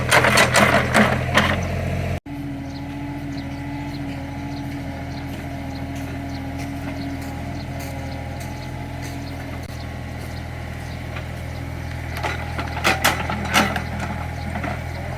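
Small Caterpillar excavator's diesel engine running steadily while it digs soil, with bursts of scraping and clattering at the start and again about twelve to fourteen seconds in.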